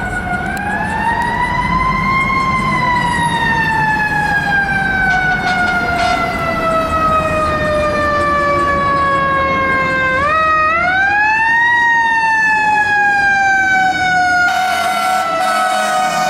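Fire engine siren wailing: its pitch rises over about two seconds, then falls slowly, and rises again about ten seconds in before falling slowly once more.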